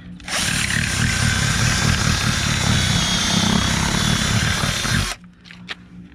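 Power drill running steadily for about five seconds, starting and stopping abruptly, while boring a hole through the bus body for the backup camera's wire.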